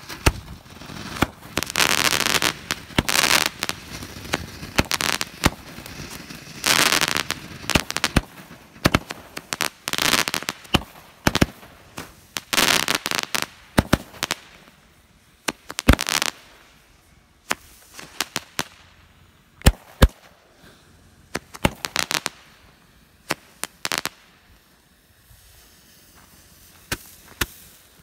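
Consumer fireworks going off: a run of sharp bangs and pops, mixed in the first half with several stretches of hissing and crackling, the bangs becoming sparser toward the end.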